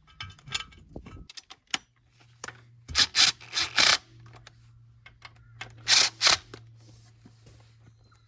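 Hand tools tightening bolts on a cover plate of an International A414 tractor: scattered metallic clicks and rattles, with louder scraping bursts about three seconds in and again around six seconds. A low steady hum sets in about a second in.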